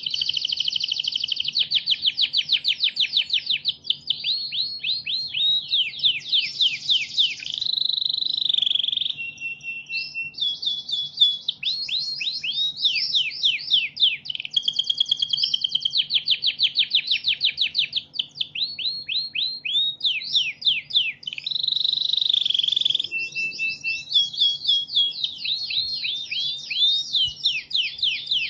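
Domestic canary singing a long, continuous song: fast trills of repeated sweeping notes, changing from phrase to phrase, broken by a few short held whistled tones.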